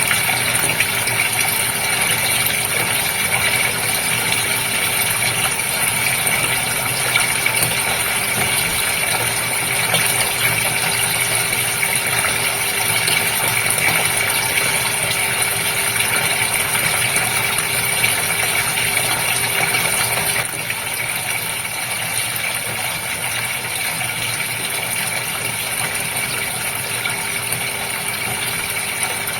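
Water in a goldfish tank bubbling and splashing steadily, with a steady hum underneath. It gets slightly quieter about two-thirds of the way through.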